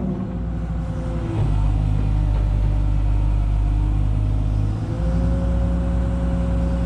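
Kobelco SK250LC excavator's diesel engine running steadily under hydraulic work. The engine note shifts about a second and a half in, and again near five seconds, when a steady whine joins.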